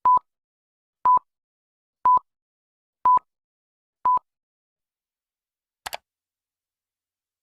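Five short electronic beeps of the same high pitch, evenly spaced one second apart, followed about a second and a half later by a single brief crackling click.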